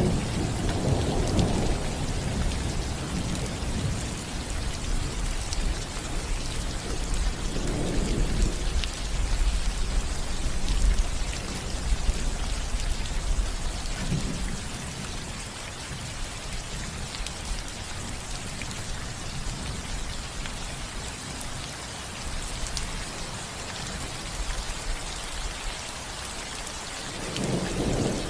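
Steady rain falling on a house roof, with low rolling thunder that swells several times, strongest at the start and again near the end.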